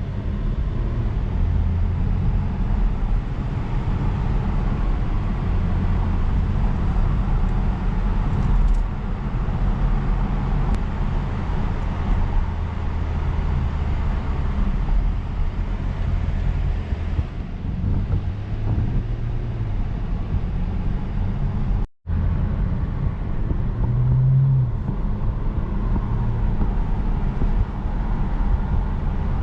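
BMW M240i's turbocharged straight-six running while driving: a steady low engine and road drone that swells and eases a little, with the sound cutting out for an instant about two-thirds of the way through.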